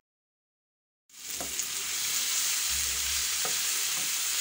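Deep-fried fish pieces frying in oil with onions and tomatoes in a pan, a steady sizzle that starts after about a second of dead silence. A wooden spatula stirs the pan, scraping a few times.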